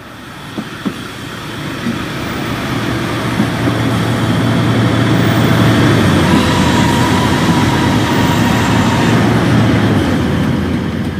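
Rumble of a passing train, swelling up over the first few seconds, holding, then fading away near the end.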